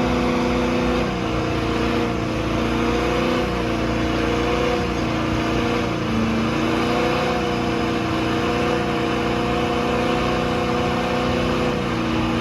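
Truck engine running hard at high, fairly steady revs during a burnout, its pitch wavering slightly, over a dense rushing noise.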